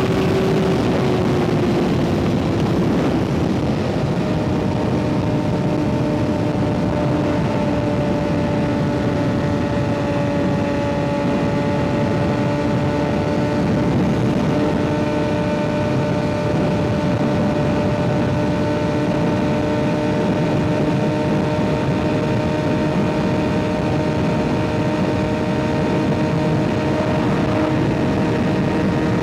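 Kawasaki ZX6R 636 inline-four with an M4 exhaust running at a steady cruise, under a constant rush of wind and road noise. The engine note eases down a little in the first few seconds, then holds an even pitch.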